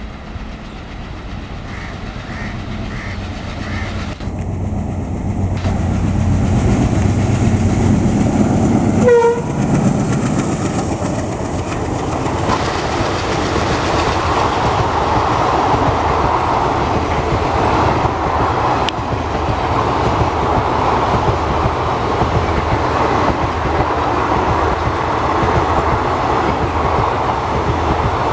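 Diesel locomotive approaching with its engine running, getting louder, and giving a short horn toot as it passes about nine seconds in. A long rake of passenger coaches then rolls by with steady wheel-on-rail noise and clickety-clack over the rail joints.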